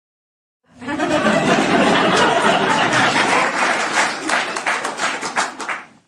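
Audience laughing together with hand clapping mixed in, the claps standing out more in the second half. It starts just under a second in and cuts off shortly before the end.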